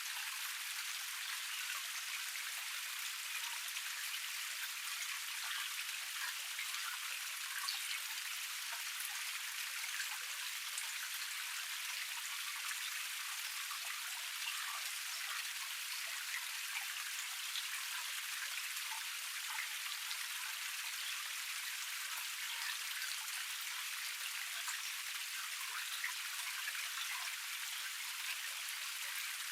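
Small cascade of water running over rocks: a steady splashing rush with a fine patter of droplets that keeps an even level throughout.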